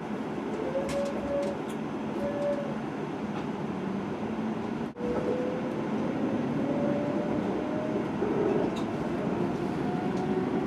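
Kintetsu limited express train heard from inside the passenger car, pulling away and picking up speed: steady running rumble with a faint motor whine that slowly rises in pitch. There is a brief dropout about halfway through.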